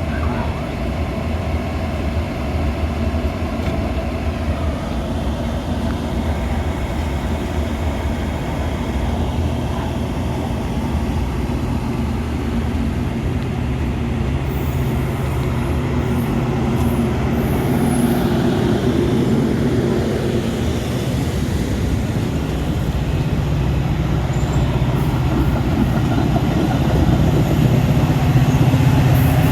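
Metra commuter train running with a steady low rumble that slowly builds in loudness.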